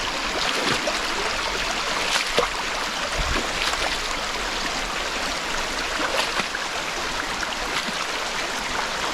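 Mountain stream rushing and splashing over rocks, with a few brief knocks and clacks mixed in.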